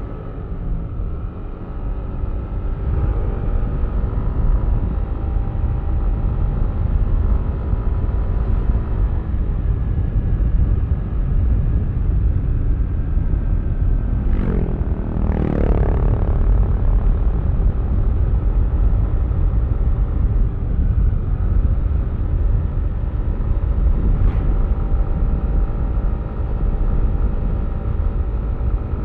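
Yamaha Aerox V3's 155 cc single-cylinder scooter engine running steadily under way, over a heavy low rumble of wind and road. About halfway through, a brief sound sweeps up and falls back twice.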